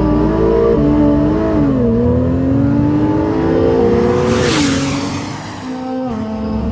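A Porsche 911 Targa 4 GTS's twin-turbocharged 3.0-litre flat-six pulls under acceleration. Its note climbs steadily for about three seconds, then drops sharply with a brief rush of noise, as at a gear change or lift-off, and carries on at lower revs.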